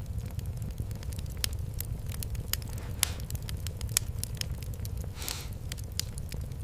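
Fireplace wood fire crackling, with frequent sharp pops and snaps over a steady low rumble. A brief hiss comes about five seconds in.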